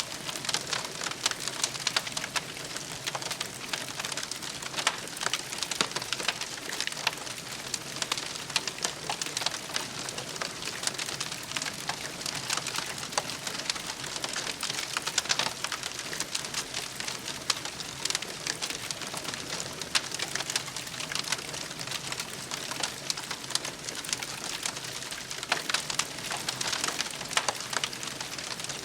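Wood fire crackling steadily, with a dense run of small pops and snaps over a soft hiss.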